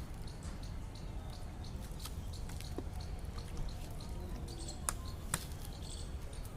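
Stray dogs chewing and crunching food, many small irregular clicks over a steady low background noise, with two sharper clicks about five seconds in.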